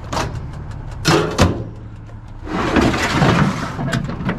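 Knocks and clunks, then a rattling scrape lasting about a second and a half: hard objects being handled and shifted while a curbside microwave and other scrap are picked through.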